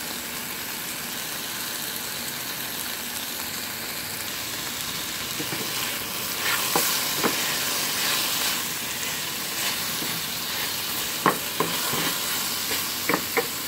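Mixed vegetables sizzling in olive oil and water in a stainless steel pan, a steady frying hiss. A few sharp clicks of a utensil against the pan come as they are stirred, about six to seven seconds in and again near the end.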